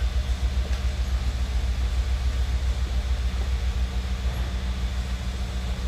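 Steady low mechanical rumble with a constant hum, from machinery running in the background.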